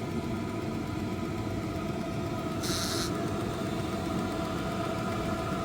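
A cheap Chinese diesel air heater running: a steady fan whine with several held tones over a low combustion rumble. A short hiss comes about three seconds in.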